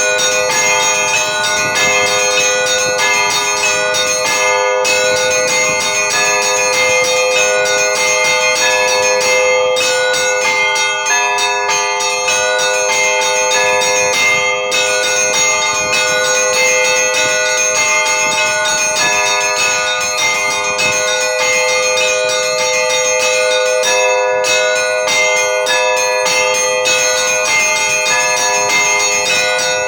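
Russian Orthodox church bells rung by hand in a continuous festive peal. Several bells of different pitches are struck in quick, repeated strokes, and their tones overlap in one unbroken ring.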